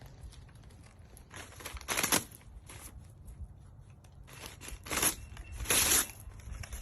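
Rustling, crinkling handling noise in three short bursts, the last two close together near the end.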